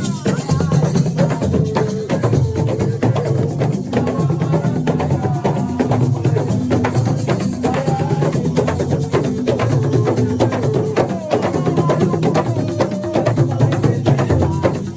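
Assiko band playing: drums and other percussion keep up a busy, steady beat, with a pitched bass line and melody moving in steps over it.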